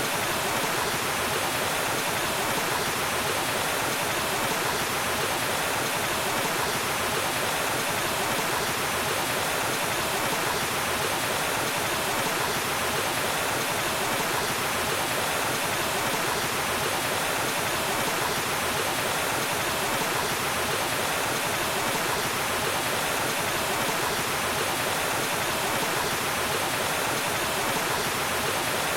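Waterfall: water falling and rushing in a steady, unbroken roar of white-noise-like splashing.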